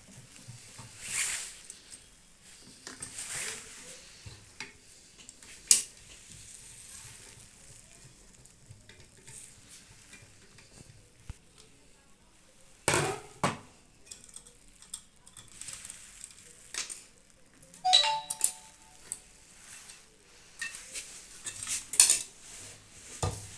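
Hand tools and screws clicking, scraping and clinking against the sheet-metal body of a microwave oven as parts are unscrewed. There is one ringing metallic clink about eighteen seconds in.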